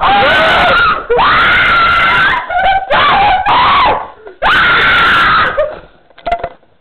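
Several people screaming in fright: four long, loud, high-pitched screams of about a second each in quick succession, followed by a few short gasps.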